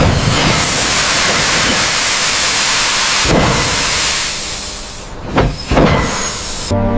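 Loud, steady hiss of a pressurised jet, such as air, steam or blasting spray, that eases off about three seconds in. A few sharp knocks follow near the end.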